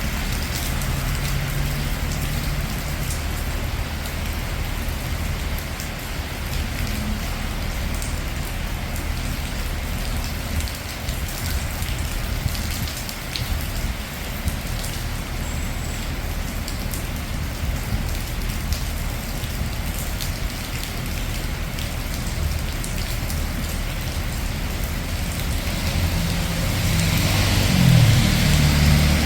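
Steady rain falling on a city street, with the low hum of passing traffic underneath. Near the end a vehicle's engine grows louder as it comes close.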